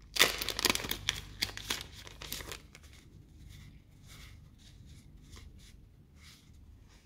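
Packaging being torn open by hand. A loud run of tearing and crinkling lasts about two and a half seconds, followed by softer, scattered rustling as it is handled.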